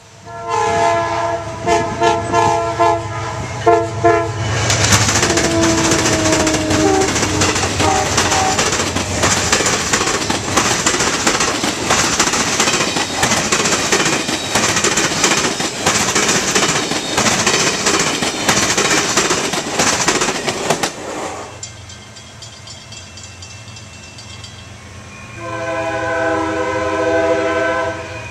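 A train horn sounds several short blasts, then a train passes close by with a loud, steady rumble and wheel clatter for about sixteen seconds. The rumble drops off, and near the end the horn sounds once more, for about two and a half seconds.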